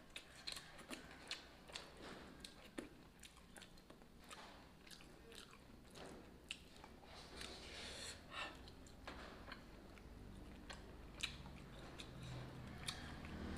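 Close-up eating sounds: chewing a mouthful of rice with wet smacks and irregular small clicks, and fingers working rice in a steel bowl.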